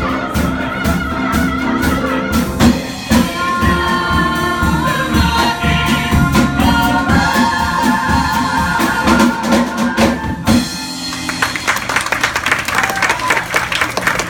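A stage musical number ending, with the ensemble holding sung notes over an accompaniment with a steady drum beat; about ten and a half seconds in the music cuts off and the audience breaks into applause.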